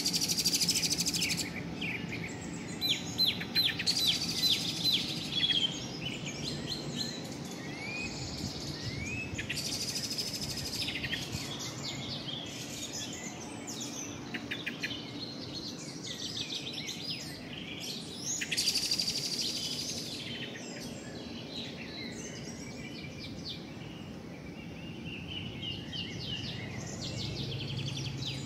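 Songbirds chirping and singing, with a fast run of repeated notes a few seconds in and short rising calls scattered through.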